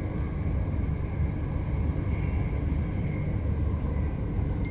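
c2c electric train running at speed, heard from inside the carriage: a steady low rumble of wheels on track with a faint steady whine above it.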